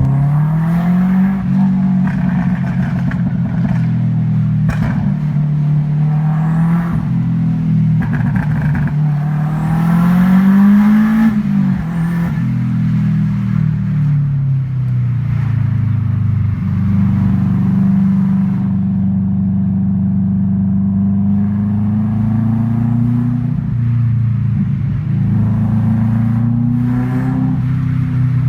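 2004 Subaru Impreza WRX STi's turbocharged 2.0-litre EJ207 flat-four pulling through the gears through a catless downpipe and aftermarket exhaust, heard from inside the car. The note climbs and drops back at each shift and is loudest about ten seconds in, then holds steadier for a few seconds before climbing again near the end. Sharp cracks from the burble tune are scattered through it.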